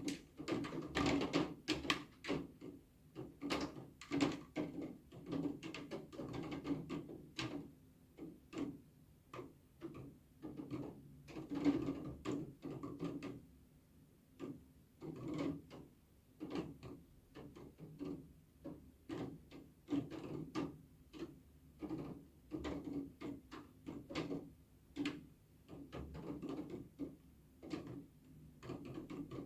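Raindrops dripping onto a hard surface: irregular separate taps, several a second, with no steady rain hiss beneath them.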